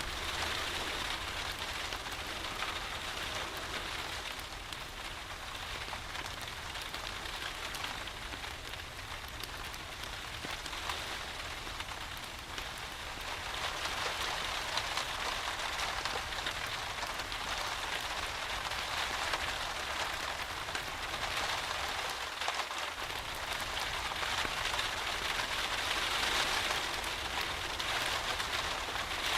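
Steady rain falling: an even hiss of many drops, a little louder in the second half.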